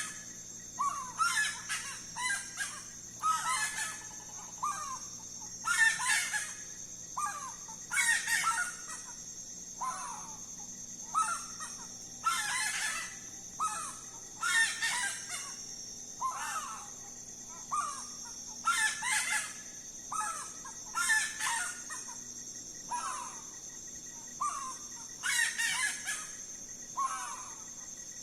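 A saracura (wood rail) calling loudly and repeatedly, a harsh, rooster-like phrase every second or two that goes on without a break. A steady high-pitched whine runs underneath.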